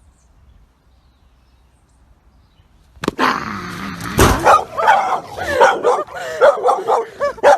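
A dog barking and yelping in quick succession, starting suddenly about three seconds in, with a thump soon after.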